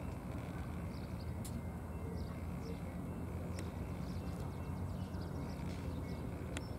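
Diesel freight train rumbling steadily, with a few sharp clicks about two seconds apart.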